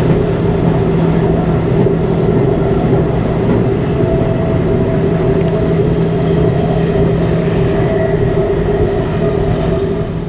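Namo Bharat RRTS electric train running, heard from inside the carriage: a steady rumble with a constant low electric hum and a few higher whining tones over it.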